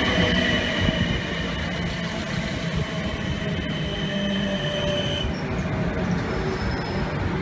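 Red South Western Railway electric multiple unit running along the platform with a steady rumble of wheels on rails. Over the rumble sit low hums and a steady high-pitched whine that stops about five seconds in.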